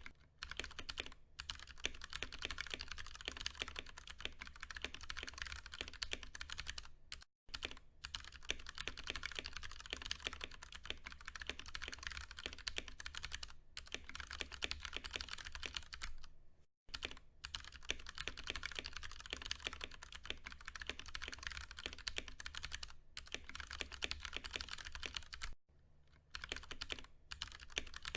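Continuous fast typing on a Ducky One 2 Mini mechanical keyboard with Cherry MX Brown switches: a dense run of key strokes, broken by three short pauses, about a quarter of the way in, around the middle and near the end.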